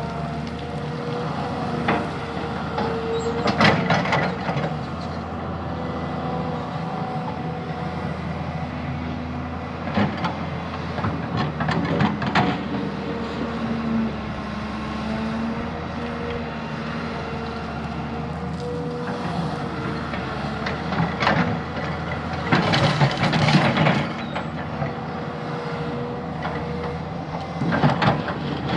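Heavy diesel earthmoving machinery running steadily under load, broken about five times by noisy scraping, clanking bursts of a second or two as it works the ground.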